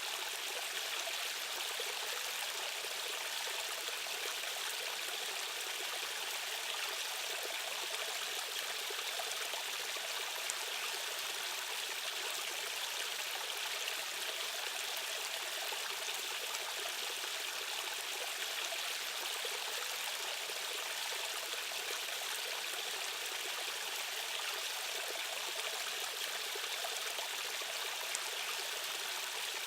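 Fast-flowing stream water rushing in a steady, even hiss, with no deep rumble beneath it.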